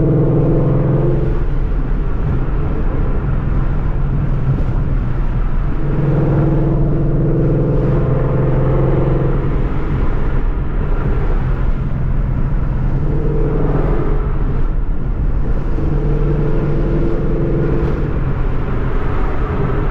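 2014 Ford Mustang GT's 5.0-litre V8 engine and exhaust running while driving, with a steady drone that swells several times under throttle and eases off between.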